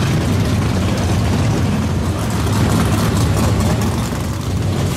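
A car engine running steadily through its exhaust, heard as a continuous low sound without sharp revs.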